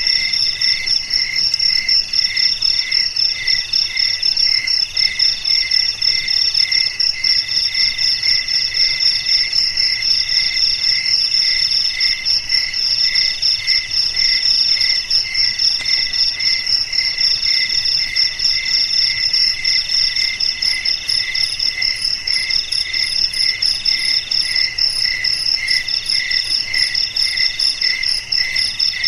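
Crickets chirping in chorus: several steady, rapidly pulsed trills at different pitches overlap, and one of them comes in runs of about a second with short gaps between.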